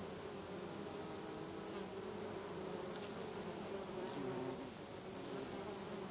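Many bees buzzing around lavender flowers, a steady drone of overlapping wingbeats that wavers slightly in pitch as individual bees fly close and away.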